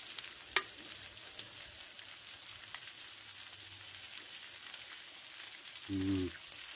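Chicken and vegetable rice sizzling steadily in a frying pan on a wood-burning stove top, with a sharp click about half a second in and a few faint ticks.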